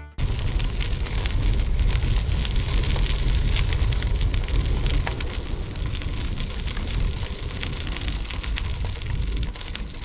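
Wind rumbling on a GoPro Hero 8 microphone, with a dense, steady crackle over it.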